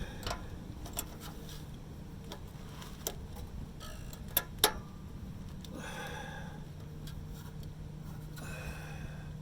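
Light metallic clicks and taps of a clamp and hand tools being worked onto an exhaust pipe, with two louder clinks about halfway and two short rasps later. A steady low hum runs underneath.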